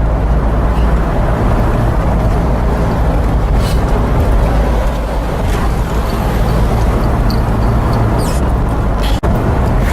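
Car driving, heard from inside the cabin: a steady low rumble of engine and road noise. It cuts out briefly near the end.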